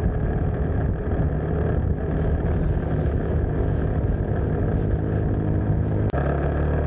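Motorcycle engine running at a steady cruising speed on a highway, with road and wind noise. The sound changes abruptly with a click about six seconds in, then runs on at a steady, lower drone.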